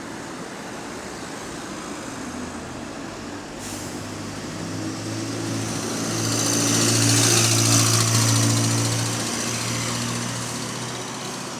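Bus passing with its engine note swelling to a peak about seven seconds in, then fading. A harsh high hissing noise rides on top of the engine, and the bus sounds clapped.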